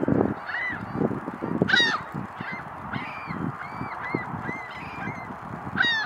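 A bird giving a run of short, arched honking calls, about two a second, with the loudest call about two seconds in, over a steady low rumble of wind and water.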